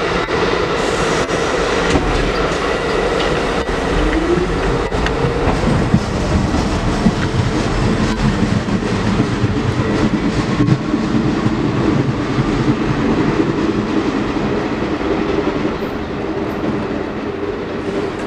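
Train passing close by: a steady rail rumble with wheels clicking over rail joints, a brief rising whine about four seconds in, and the noise easing off a little near the end.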